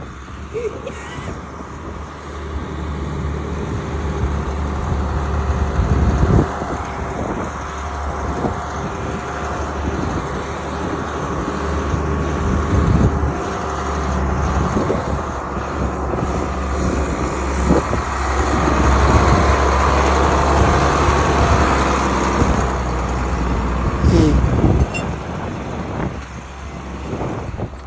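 Farm vehicle engine running while driving, a steady low rumble with scattered knocks and rattles. It grows louder about two-thirds of the way through, then drops back shortly before the end.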